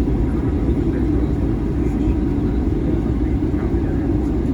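Steady low rumble of a Boeing 737-800 airliner heard from inside the cabin, its CFM56 turbofan engines running.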